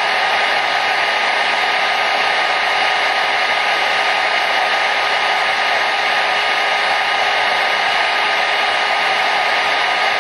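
Hair dryer running steadily: a constant airy rush of blown air with a faint steady motor whine running through it.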